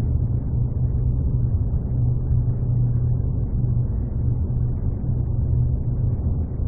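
Steady low mechanical drone with a constant deep hum and no breaks.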